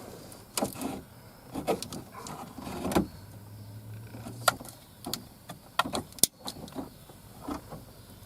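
Scattered sharp clicks and light knocks of hands working plastic wiring-harness connectors under the truck's hood, with a low steady hum for about a second and a half near the middle.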